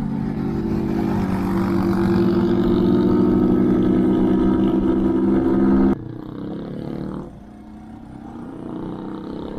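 Brixton motorcycle engine running under throttle, a steady note that slowly grows louder, then drops abruptly about six seconds in to a quieter, lower-pitched run.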